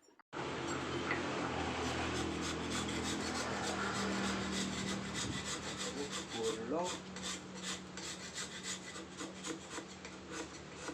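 A hand carving tool scraping and rasping across soft paras Jogja stone in quick repeated strokes.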